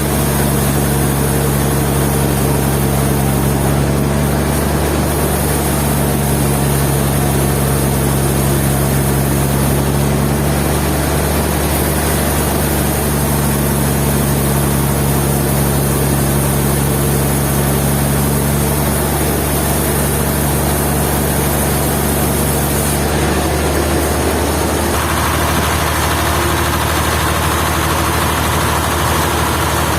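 Sawmill machinery running steadily, a constant engine-like hum with steady tones; the sound changes about 23 seconds in.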